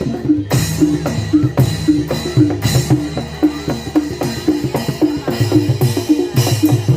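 Live Barongan Blora gamelan accompaniment: a fast, even pattern of pitched metal-percussion strokes over hand-drum beats, with recurring cymbal-like crashes.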